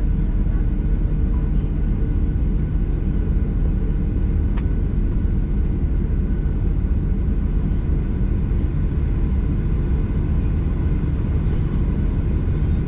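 Steady cabin rumble of a Boeing 737-800 with its CFM56-7B engines at low power on the ground before takeoff, heard from a window seat, with faint steady engine tones. A single faint click about four and a half seconds in.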